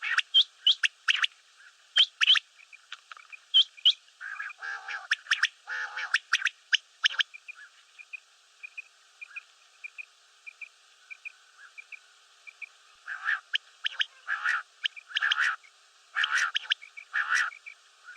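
Common quail calling: a run of short, sharp notes in the first few seconds, then groups of lower, fuller calls about four to seven seconds in and again from about thirteen seconds, with faint, regular chirps in the gaps.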